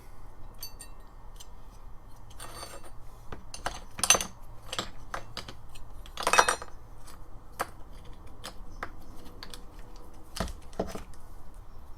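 Small metal parts clinking and knocking at irregular intervals as trimmer gearbox pieces and tools are handled on a work surface, with two louder clanks about four and six and a half seconds in.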